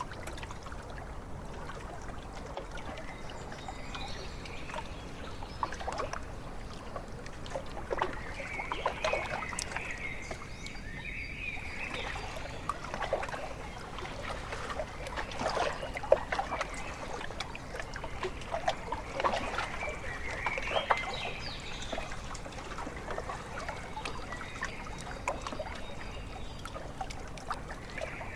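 Small waves lapping and slapping irregularly at a lakeshore over a steady low water rush, with a few bird calls.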